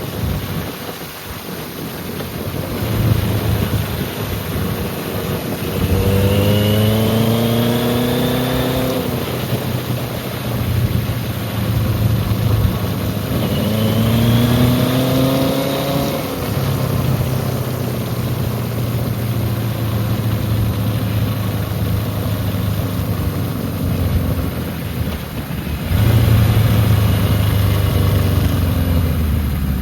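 1980 Kawasaki KZ1000 LTD's air-cooled inline-four engine being ridden, accelerating twice with the pitch rising, about six seconds in and again around thirteen seconds, then running steadily, louder again near the end.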